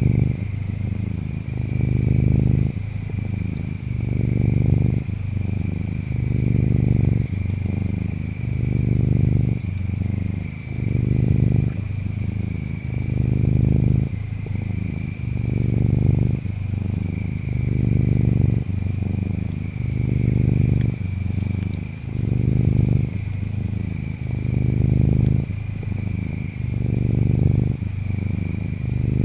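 Domestic cat purring, swelling and fading with each breath about every two seconds. Behind it runs a steady high insect trill, with fainter, higher insect chirps in short repeating bursts.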